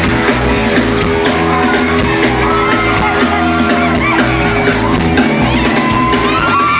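Live rock band playing, heard from within the audience, with the crowd shouting and singing along over the music.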